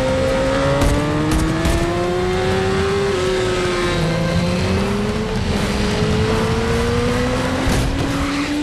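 Motorcycle engines running at high revs during a high-speed chase, their pitch climbing slowly as they accelerate, with a brief drop about four seconds in as if at a gear change. A few short clicks and some tyre noise.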